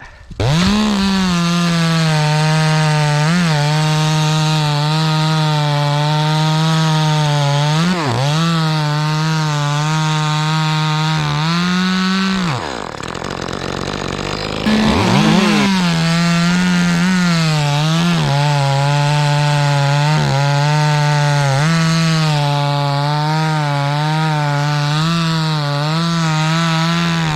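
Echo 2511 top-handle two-stroke chainsaw at full throttle, cutting pine, its pitch dipping briefly as the chain loads in the wood. About twelve seconds in it drops off throttle for a couple of seconds, then revs back up and cuts on.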